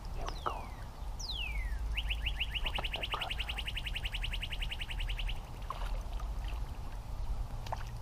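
A songbird singing: two downslurred whistles followed by a rapid, even trill of about ten notes a second lasting about three and a half seconds, over a low rumble of wind.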